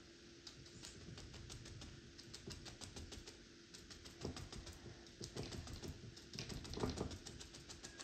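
Paintbrush tapping and dabbing on a stretched canvas: a rapid, irregular run of light taps, several a second, with a few heavier knocks in the second half.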